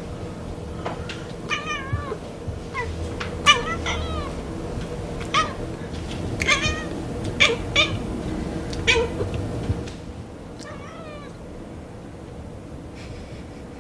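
A domestic cat making a rapid series of short meows and chirping, trilling calls, as if chattering back, which grow fainter and sparser in the last few seconds.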